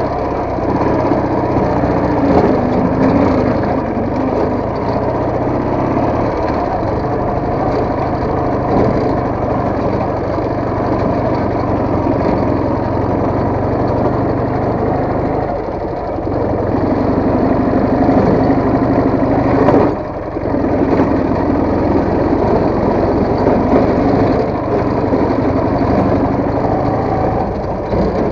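Motorcycle engine running steadily while riding, the revs easing off briefly about halfway through and again a few seconds later before picking back up.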